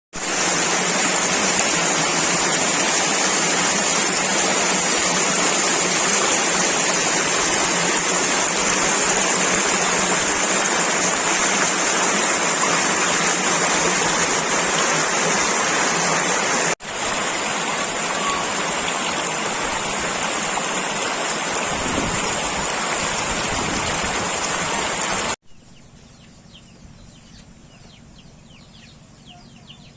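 Rushing floodwater, a loud steady noise, broken by a cut about halfway through. Near the end it gives way to a much quieter scene with birds chirping.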